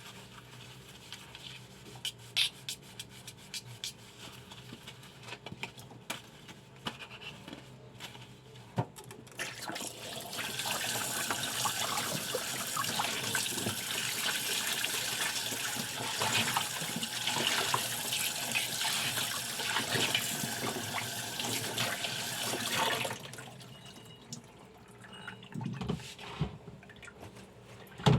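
Kitchen tap running into a sink for about twelve seconds, a steady rush of water. Before it, scattered clinks and knocks of dishes and pans being handled.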